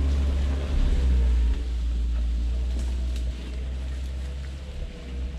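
Suzuki Jimny running slowly in low gear: a steady low engine rumble with a faint whine, gradually getting quieter.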